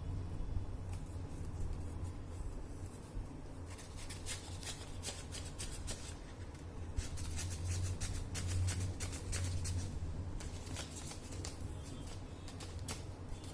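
Sheet of origami paper being handled, folded and creased, giving clusters of crinkling, crackling rustles from about four seconds in, over a steady low hum.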